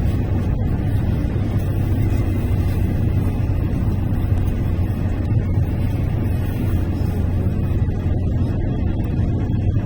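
Steady low drone of a car's engine and road noise heard inside the cabin while driving.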